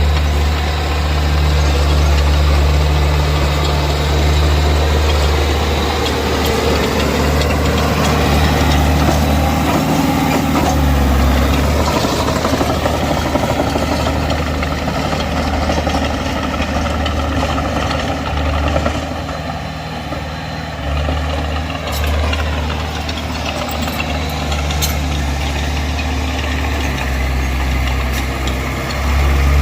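Heavy diesel earthmoving machinery working: a diesel engine runs loud and continuously, its level swelling and easing with load, and revs down about two-thirds of the way through.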